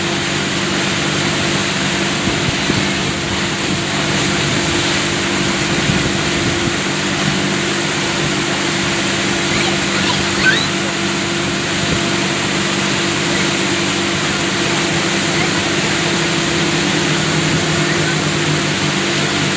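Motorboat engine running steadily while under way, with a steady rushing noise over it.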